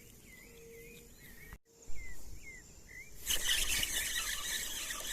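Riverside birds calling with short, curling chirps over a faint background, broken off by a momentary dropout. A little over three seconds in, a louder, even high-pitched insect buzz sets in.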